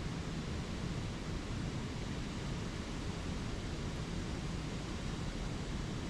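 Steady rushing of a spring creek's flowing water, even and unbroken.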